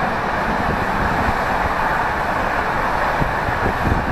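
Passenger train running at speed, heard from inside the carriage corridor: a steady rumble and rush of wheels on the track, with a few low knocks near the end.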